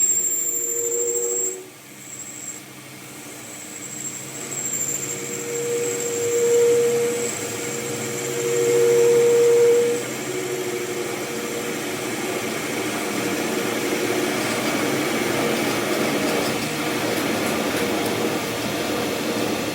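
A workshop machine or power tool running steadily with a whining hum. It drops away briefly about one and a half seconds in, then builds up again and is loudest around six and nine seconds in.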